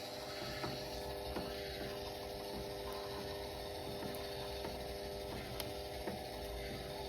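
Motor of a DIY PET-bottle filament-making machine running steadily: a constant mechanical whine with a few light clicks scattered through it.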